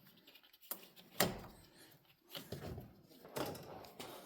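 A few light knocks and clanks of metal tools and cable clamps being handled while the truck's battery cables are reconnected, the sharpest about a second in.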